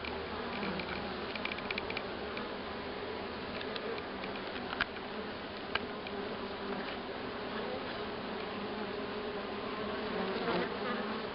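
Honeybee colony humming: the steady drone of many bees, with a few faint clicks scattered through it.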